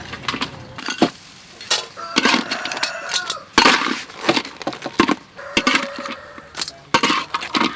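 Kitchen clatter: a run of irregular knocks and clinks from utensils and dishes being handled while food is prepared, with brief ringing tones between the hits.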